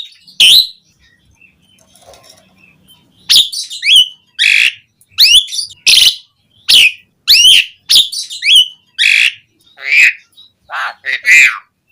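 Pied starling (jalak suren) singing loudly: a single short note, a pause of about two and a half seconds, then a fast run of loud whistles and harsh notes with gliding pitches, about two a second.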